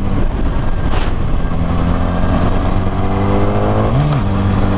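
Yamaha R6 sport bike's inline-four engine running steadily under way, heard through a helmet-mounted mic, with the revs rising slightly about three seconds in.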